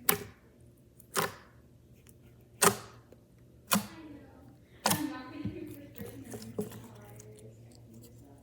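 Five sharp smacks, a little over a second apart, each dying away quickly.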